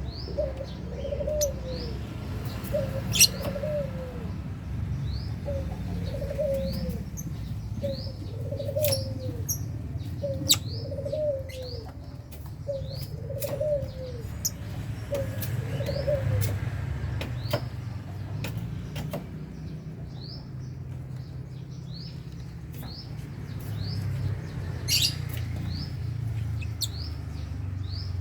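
Caged lovebirds chirping with short, high, rising calls again and again, with sharp flutters and clicks as they move and flap about the cage. Through the first half, a lower cooing call repeats about once a second over a steady low hum.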